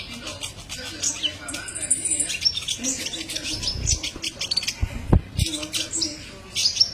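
Kolibri ninja sunbird song: a fast, dense run of high chirps and short trills, with a low thump about five seconds in.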